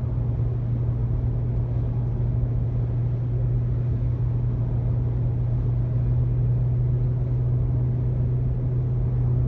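Honda Odyssey minivan driving at speed: steady road and engine noise with a constant low drone.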